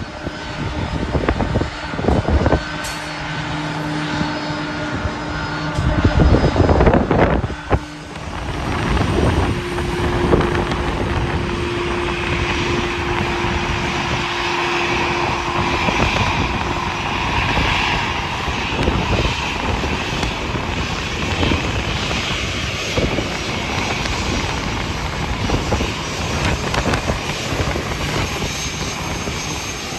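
Airliner jet engines running loud, settling into a steady roar with a held whine from about nine seconds in. Heavy wind buffets the microphone, in the loudest gusts about six to eight seconds in.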